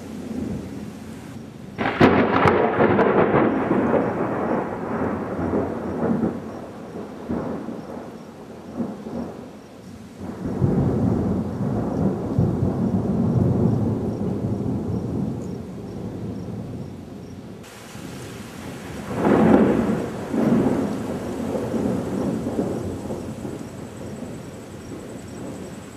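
Monsoon thunderstorm thunder: a sharp crack about two seconds in that rolls into a long rumble, a deeper rumble starting about ten seconds in, and another crack near the end that rumbles away.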